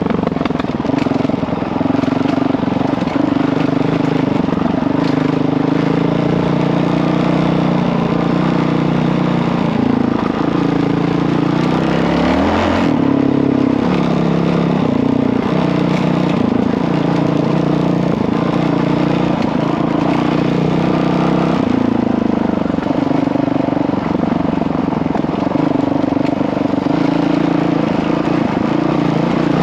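Honda CRF dirt bike's single-cylinder four-stroke engine running under way, its pitch rising and falling as the throttle is opened and closed. The biggest swing comes about twelve seconds in.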